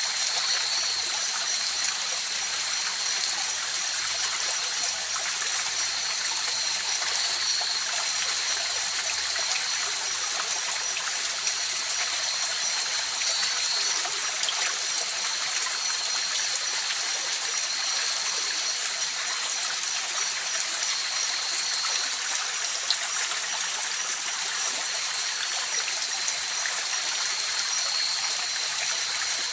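River flowing steadily, an even rushing of water without breaks, with a steady high thin tone running through it.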